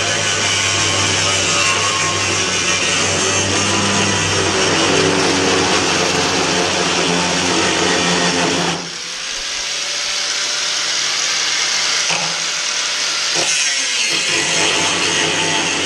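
Power tool running under load, typical of an angle grinder working steel: a loud, steady motor with harsh grinding noise. About nine seconds in it drops back briefly to a lighter run, then comes back to full load near the end.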